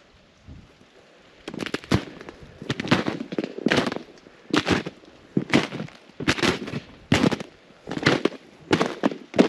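Footsteps crunching through ice-crusted snow, a crunch about every second once walking starts a second and a half in.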